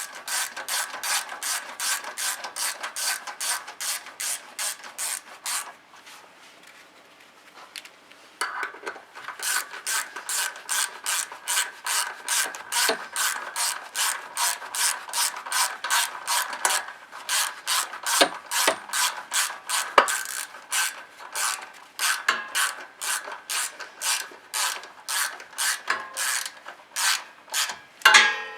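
Ratchet wrench clicking in a steady rhythm, about two to three clicks a second, as the valve cover screws on a small four-stroke snowblower engine are run back in. The clicking stops for a couple of seconds about six seconds in, then resumes.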